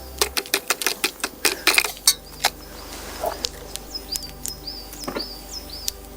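A quick, irregular run of sharp clicks and crackles through the first two seconds or so, then a series of short high chirps, about three a second, in the second half, typical of a small bird calling.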